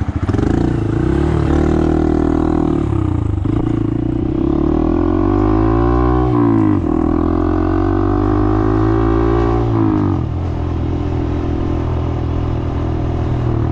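Honda Monkey motorcycle's small single-cylinder engine pulling away and accelerating, its pitch climbing and dropping with each gear change, then easing to a lower steady note about ten seconds in.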